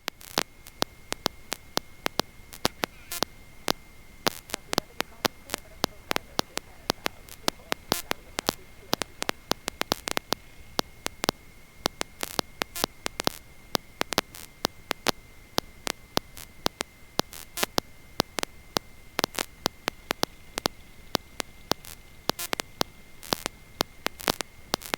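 Electrical static on the audio line: irregular crackling clicks, several a second, over a faint steady hiss and a thin high whine. No engine or voices come through, so the audio feed is dropping out.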